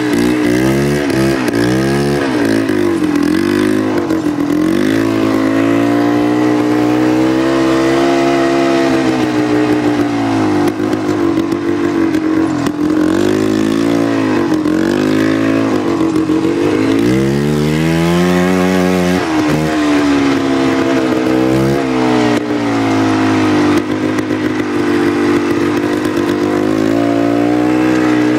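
1989 Polaris Trail Boss 250's single-cylinder two-stroke engine running through a new muffler on a homemade welded pipe, revving up and down over and over, with a longer climb in pitch past the middle.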